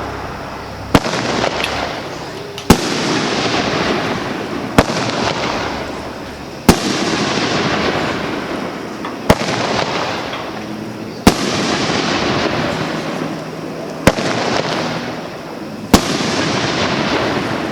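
Consumer-grade aerial fireworks bursting one after another: eight sharp reports about two seconds apart, each followed by a rush of hiss that fades over a second or two.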